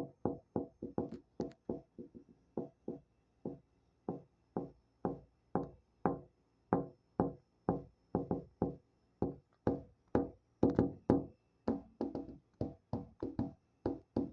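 A series of sharp knocks or taps, about three a second at uneven spacing, each with a short ringing tail.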